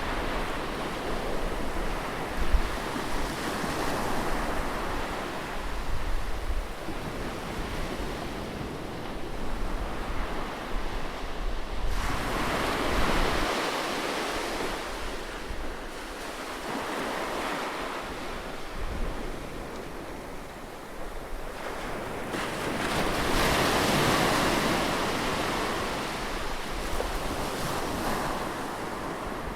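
Ocean surf: waves breaking and washing up a beach, swelling loudest about twelve seconds in and again about twenty-three seconds in. Wind buffets the microphone with a low rumble.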